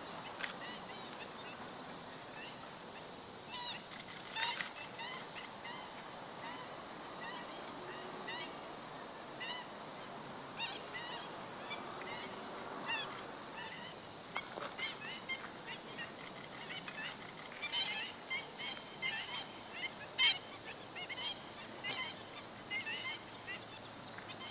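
Black-winged stilts calling: repeated short, yelping calls, coming thicker and overlapping in the second half.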